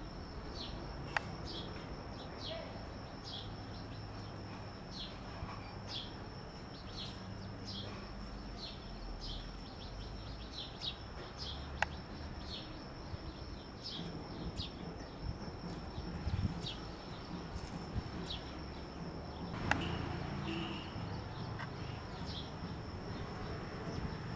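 Small birds chirping: a steady run of short, falling chirps, about one or two a second, over a constant high-pitched tone and a low background rumble. A few sharp clicks stand out.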